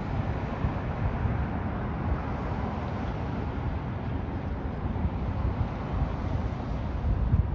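Wind buffeting the microphone in an irregular low rumble over steady road noise.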